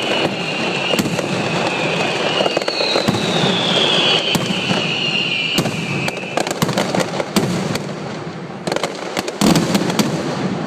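Fireworks display: a continuous crackle and rumble of bursting shells with high whistles falling in pitch. About six seconds in, a rapid volley of sharp cracks follows, loudest near the end.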